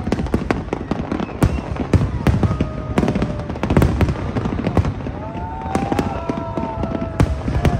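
Aerial fireworks bursting in a dense barrage: rapid bangs and crackles over a low rumble, with a few drawn-out gliding tones rising and falling above them.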